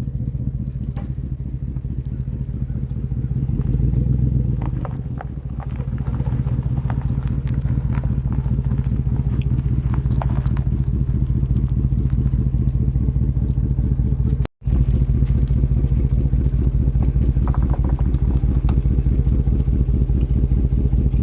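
Truck engine and drivetrain running steadily while driving, a low hum that swells briefly about four seconds in. It breaks off for a moment near fifteen seconds, then carries on.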